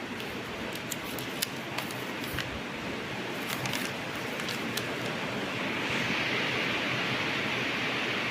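Sogo SG-5603 56-inch industrial ceiling fan running, a steady rush of air, with a few sharp clicks in the first half. About six seconds in, a high hiss in the air noise grows louder.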